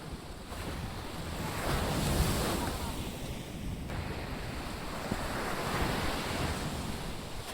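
Surf breaking on a beach, with wind buffeting the microphone. The wash of the waves swells louder about two seconds in and again near six seconds.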